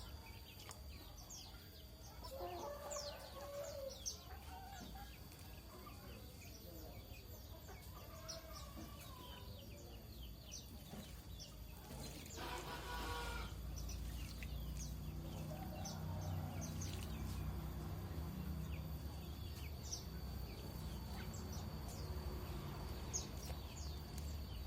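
Chickens clucking, with a rooster-like crow about halfway through, over many short, high, falling bird chirps; a low hum comes in during the second half.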